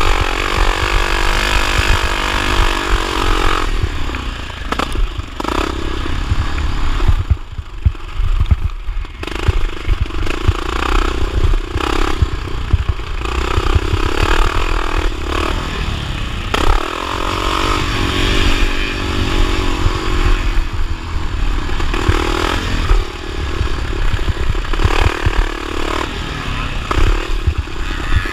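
1979 Honda XR500's four-stroke single-cylinder engine revving hard and falling off again and again, as on a motocross track, with rattling and clatter from the bike and a heavy low rumble.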